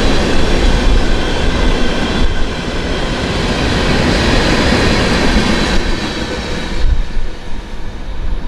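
A train rolling past at close range, the steady rush and rumble of its wheels on the rails; the sound thins out and grows quieter over the last couple of seconds.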